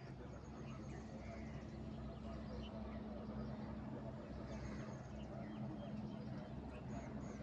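Village ambience: a steady low hum with short, high bird chirps scattered over it.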